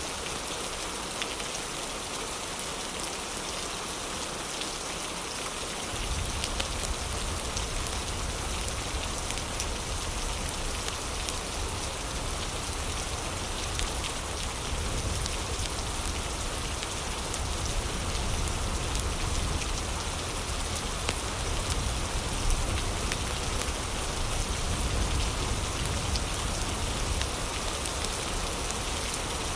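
Heavy rain falling steadily, with faint scattered crackles from a fireplace. About six seconds in, a deep low rumble joins in and the sound gets slightly louder.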